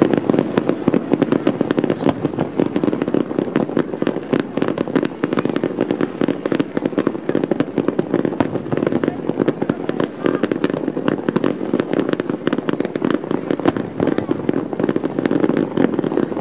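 Aerial firework shells bursting over the harbour in a rapid, continuous barrage: many sharp bangs and crackles a second over a steady rumble of booms.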